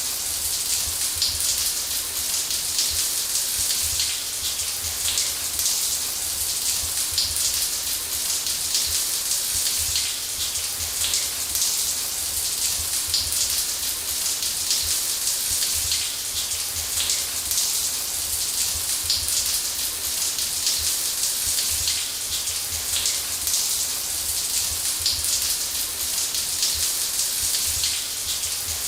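Shower water spraying and pattering steadily, an even hiss with fine patter and a low rumble underneath.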